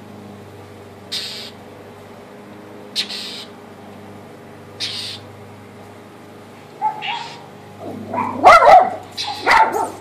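A bird repeating short, harsh scolding calls about every two seconds: alarm calls aimed at a cat it is dive-bombing. Near the end come louder, lower animal cries.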